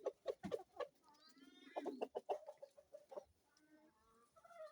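Kienyeji hens clucking softly while being fed worms: a short wavering call about a second in and a quick run of clucks near the end, among scattered sharp clicks.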